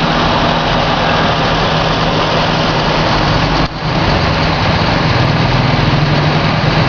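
Car engine idling steadily, a low even hum over broad noise, with a short dip about three and a half seconds in.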